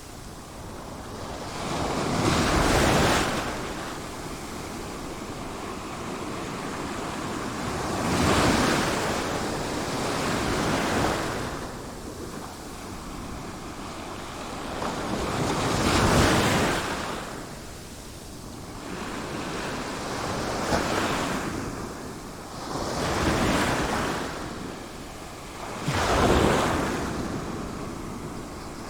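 Sea waves breaking and washing up the shore, each one swelling into a loud rush and then drawing back, about every five seconds, with a steady surf hiss between them.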